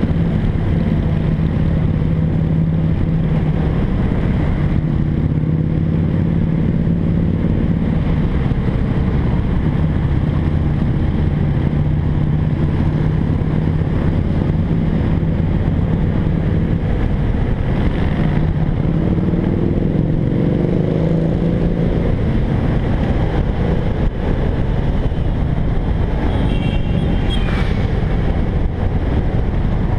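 BMW F800GS parallel-twin engine running at a steady cruising pace, mixed with wind and road noise from riding. About two-thirds of the way through, a rising engine note briefly joins in.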